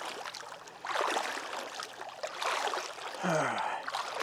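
Water splashing and sloshing as a person in waders moves through it, in irregular bursts. About three seconds in, a brief grunt falling in pitch.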